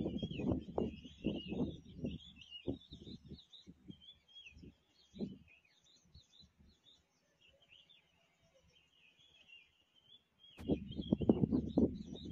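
Small birds chirping over and over in short high calls. A low, uneven rumble with thumps on the microphone covers them in the first few seconds and again near the end.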